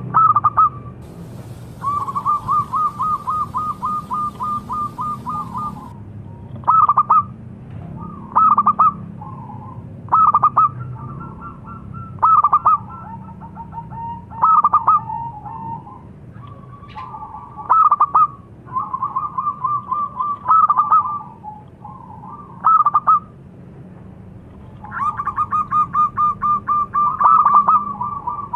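Zebra doves (perkutut) cooing in repeated phrases of quick, rolling notes, with louder single notes between phrases, over a low steady hum.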